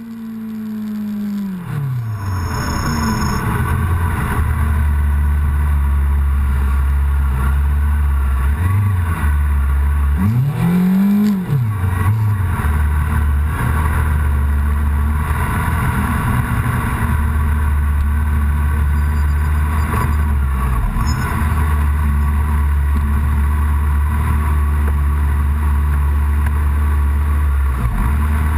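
Yamaha R6 inline-four sport bike engine running at idle, heard up close from the bike. The revs drop at the start, and a single brief throttle blip rises and falls about eleven seconds in.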